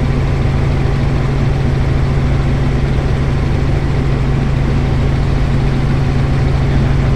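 Helicopter in flight: a steady, loud engine and rotor drone with a strong constant low hum.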